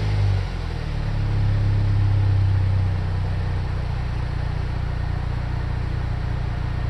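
LHU 2.0-litre turbocharged four-cylinder in a Chevrolet Cruze, breathing through a stock Buick Verano exhaust, dropping back from a rev in the first second and then idling with a steady low hum.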